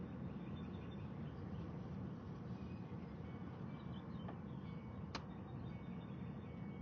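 Steady low rumbling outdoor noise, with faint bird chirps and a single sharp click about five seconds in.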